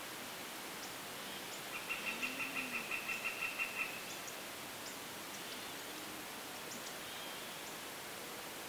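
A bird calling: a quick run of about a dozen evenly spaced notes, about six a second, lasting about two seconds and starting about two seconds in, over a faint steady hiss.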